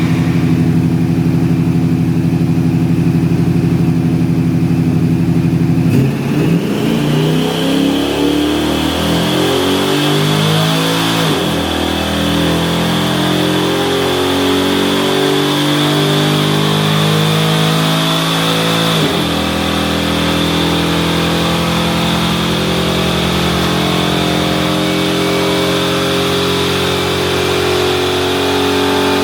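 Ford Ranger's swapped 5.3-litre V8 running hard. It holds steady revs for about six seconds, then the pitch drops and shifts unevenly before settling.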